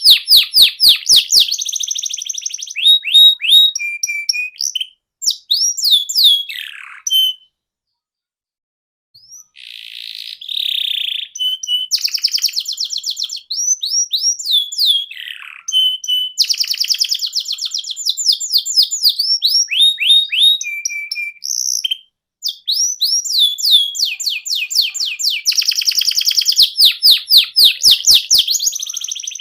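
Canary singing: fast trills of rapidly repeated chirping notes, changing from one roll to the next, with a break of about two seconds a third of the way through.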